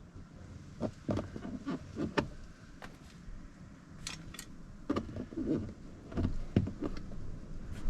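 Irregular clicks and knocks of hands working on a car door's interior trim and fittings, in scattered clusters.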